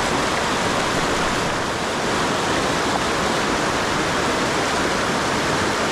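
Steady rush of river water: the Salmon River's current flowing, an even, unbroken noise.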